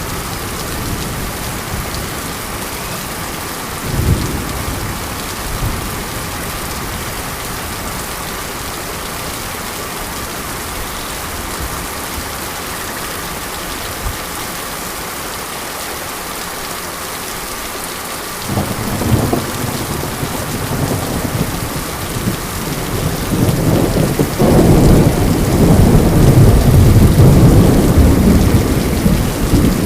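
Steady monsoon rain hissing, with thunder: a brief low rumble about four seconds in, then a long rolling rumble that builds about two-thirds of the way through and is loudest near the end.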